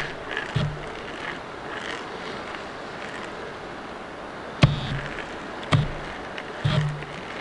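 Heavy stones knocking against each other as they are shifted and set down: one sharp clack with a dull thud about half a second in, then three more about a second apart near the end, over a steady background hiss.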